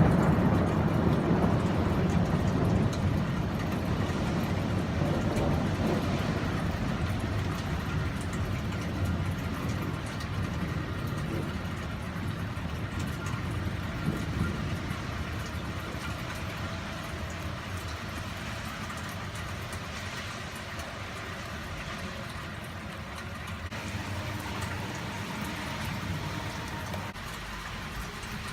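Low thunder rumbling away and fading over the first ten seconds or so, over steady rain falling.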